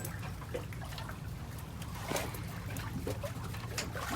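Fishing boat's engine running with a steady low hum, with faint knocks and distant voices over it.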